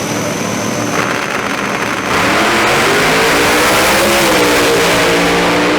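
Drag car engine revving hard at high rpm, getting louder about two seconds in, its pitch bending slightly up and back down.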